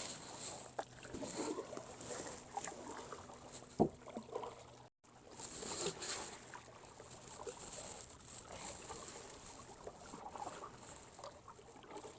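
Kayak paddle dipping and pulling through the water, with irregular splashing and sloshing. A single sharp knock comes about four seconds in.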